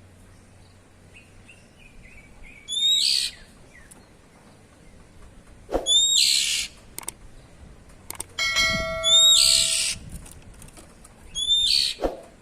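Oriental magpie-robin (kacer) giving four loud, harsh, rasping 'cier' calls, each about half a second long and a few seconds apart, the 'ngeplong' call used to prompt other kacer to sing. Soft chirps come before the first call, and a brief ringing tone just before the third.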